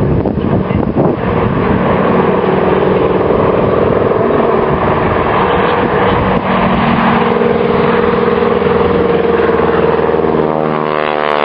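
Propeller aircraft's piston engine droning steadily as it flies past, its sound taking on a shifting, swishing quality near the end.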